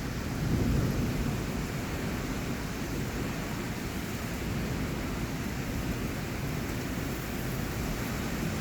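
Heavy rain falling steadily in strong wind, with a low rumble under the hiss.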